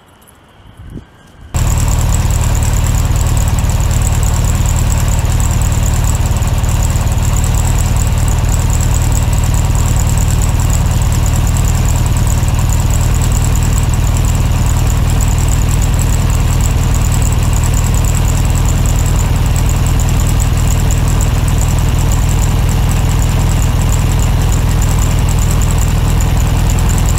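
A motor running steadily and loudly close by. It starts suddenly about a second and a half in and holds an even level throughout.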